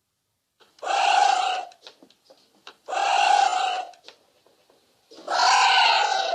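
An animal giving three hoarse, breathy calls, each about a second long and about two seconds apart.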